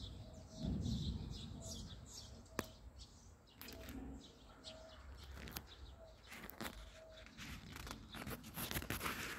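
Small birds chirping over and over, with a sharp click about two and a half seconds in.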